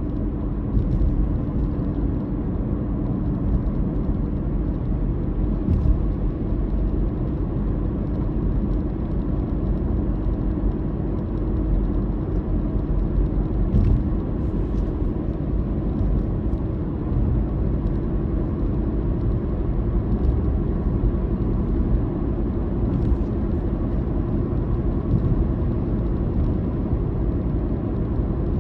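Steady road and engine drone of a car cruising, low rumble with a faint engine hum, heard from inside the cabin, with a few faint brief clicks or bumps.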